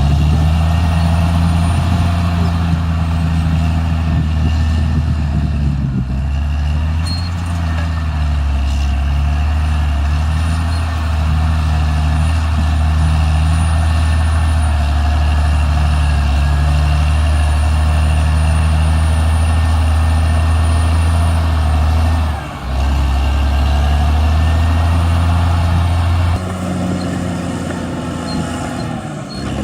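Caterpillar D6R XL bulldozer's diesel engine running steadily under load. It dips briefly about three-quarters of the way through and then settles at a lower level near the end.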